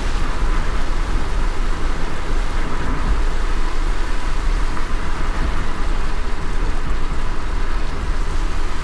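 Car driving in light rain: a steady low road rumble with a soft rain hiss over it.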